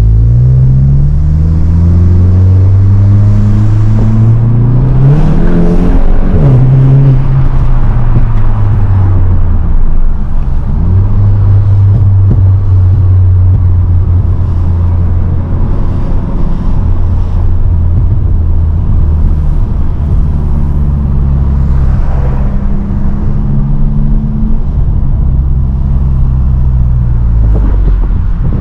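Mk8 Volkswagen Golf GTI's turbocharged 2.0-litre four-cylinder on an aftermarket Xforce exhaust with Milltek downpipe, doing a full-throttle pull. The engine note climbs steeply for about six seconds, drops and falls away, then settles into a steady low drone at cruise.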